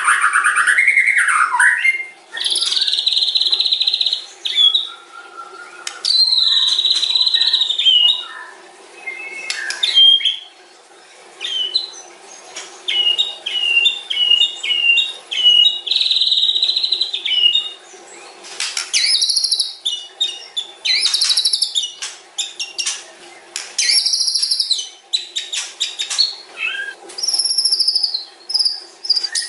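White-rumped shama (murai batu) song: a long, varied run of whistled phrases, quick repeated notes and rattling trills with short pauses between. A steady faint background hiss lies underneath.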